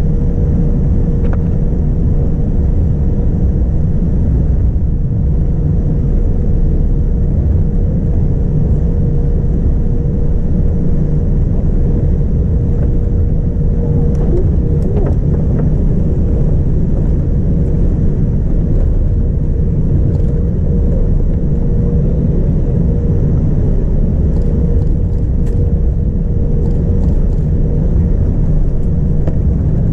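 Steady cabin noise of a Boeing 787-9 airliner in flight: a constant rumble of engines and airflow with a steady hum, unchanging in level.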